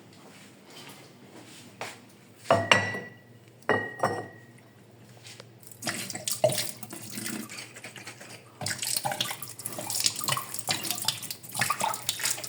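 Glass bottles clinking twice with a short ring, about three and four seconds in, then water running and splashing with bottles clattering, busiest near the end.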